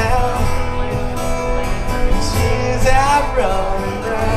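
Live acoustic duo playing: two acoustic guitars with a man singing, amplified through PA speakers.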